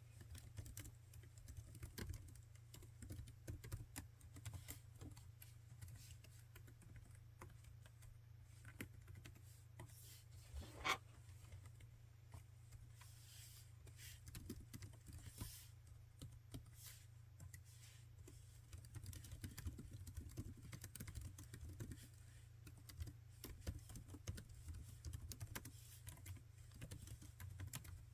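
Quiet, irregular typing on a laptop keyboard, the keys clicking in runs with short pauses, over a steady low hum. About eleven seconds in there is one brief, louder sound.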